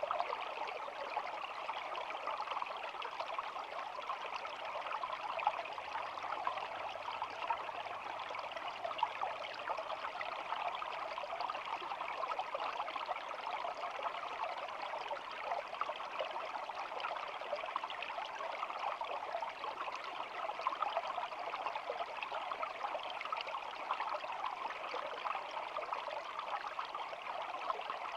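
Small shallow stream flowing and babbling steadily.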